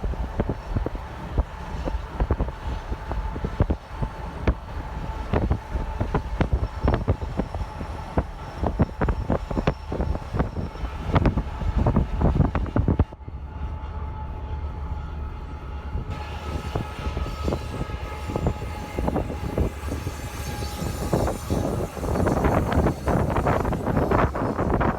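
Train running past with a dense clatter of wheels on the rails and a steady high tone over it. About halfway through the clatter gives way to a steady rumble for several seconds, and near the end the clatter comes back.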